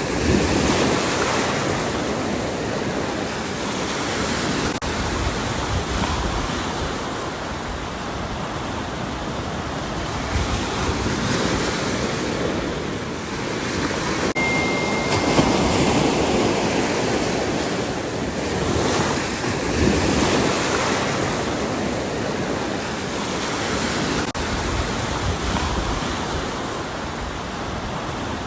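Ocean surf: waves breaking and washing in without a break, swelling and easing every few seconds, with some wind rumble on the microphone. A short, faint, steady high tone sounds about halfway through.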